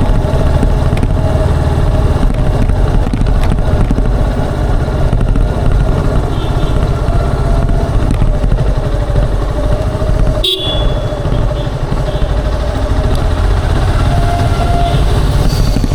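Motorcycle engine and exhaust running steadily while riding, with a brief dip in the sound about ten and a half seconds in and a short horn toot near the end.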